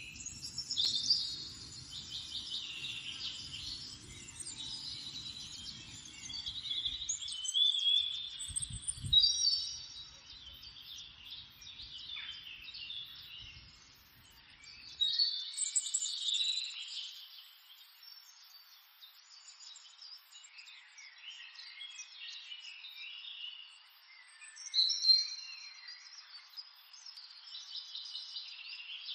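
Several birds chirping and singing in a continuous busy chorus, with a few louder calls standing out now and then. A faint low rumble sits underneath during the first half and stops about halfway through.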